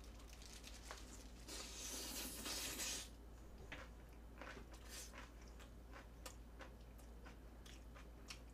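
Close-up chewing of a mouthful of spicy kimchi: a dense crunch about a second and a half in, then scattered soft, wet chewing clicks.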